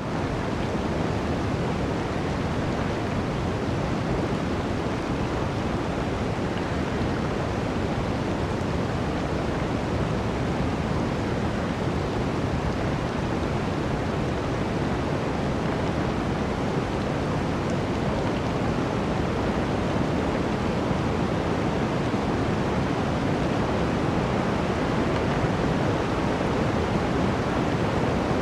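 Blizzard wind: a steady, unbroken rushing noise with no gusts or crackles standing out.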